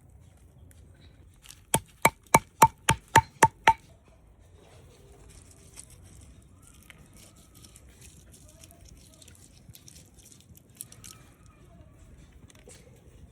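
Knife chopping on a board: eight quick sharp strikes, about four a second, each with a slight ring. After them come only faint small ticks and rustles.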